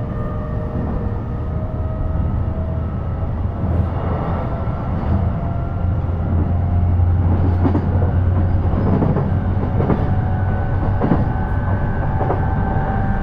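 Interior running sound of an E233-series electric train: a steady low rumble of wheels on rail, with the traction motors' whine rising slowly as the train gathers speed. Scattered clicks of wheels over rail joints come in from a few seconds in.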